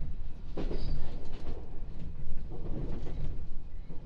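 JR East 701-series electric train running on the rails, with a steady low rumble. Louder wheel clatter comes about half a second in and again between two and a half and three seconds.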